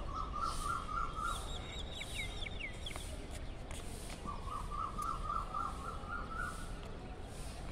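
Birds calling outdoors: a rapid warbling trill for about a second, a run of quick falling chirps, then a longer warbling trill from about four seconds in.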